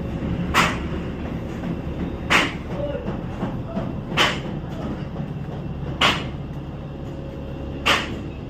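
Hammer blows beating out dents in a truck's front body panel. There is a single sharp strike about every two seconds, five in all, over a steady low hum.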